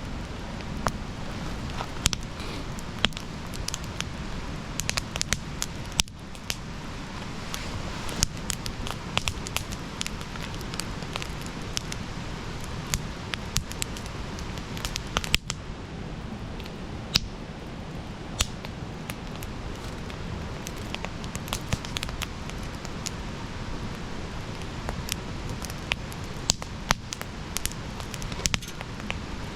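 Wood campfire burning, with frequent irregular sharp crackles and pops over a steady low rush of the flames.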